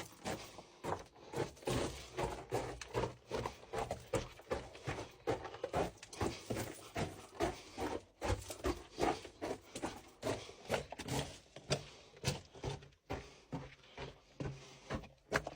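Repeated sharp knocks, about two to three a second in an uneven rhythm, keeping on without a break.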